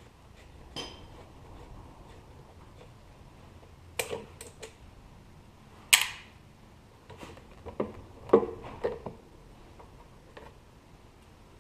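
Irregular clinks and knocks of small metal motorcycle parts and tools being handled and set down, with one sharp knock about six seconds in and a quick cluster of knocks near the end.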